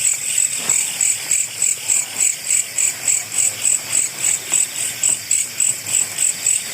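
Night insects chirping loudly in a fast, even rhythm of high-pitched pulses, about four a second.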